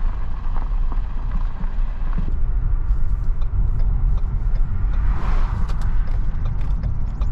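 A road vehicle driving: a steady low engine and road rumble, with a brief swell of noise about five seconds in.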